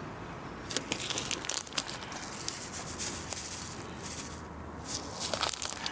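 Crinkling and rustling of a packet being handled, with scattered light clicks in clusters.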